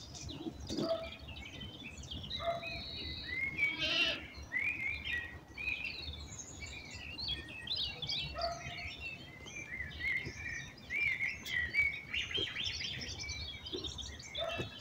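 Small birds chirping and singing, many short high calls overlapping continuously, with a few short, lower calls from another animal now and then.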